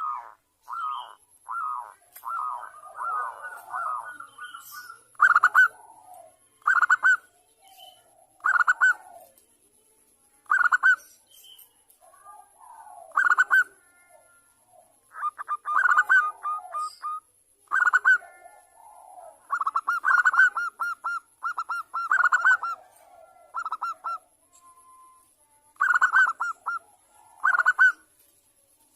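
Zebra dove (perkutut) cooing: short, rapid, trilled phrases repeated every second or two, with a few brief pauses between runs.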